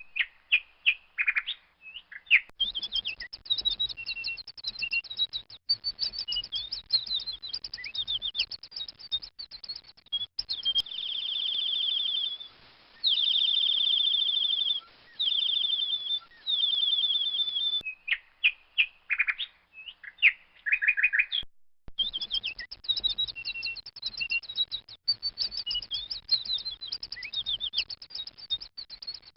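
Baby bird chirping: quick high chirps in rapid series, with a few longer runs of fast repeated notes near the middle.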